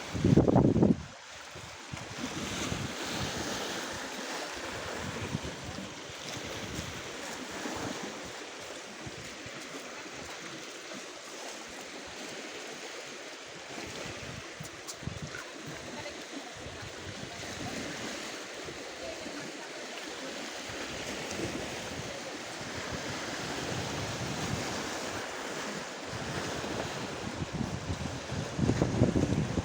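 Black Sea surf washing on the shore, a steady hiss that swells and eases like breaking waves. Wind gusts buffet the microphone with a loud low rumble in the first second and again near the end.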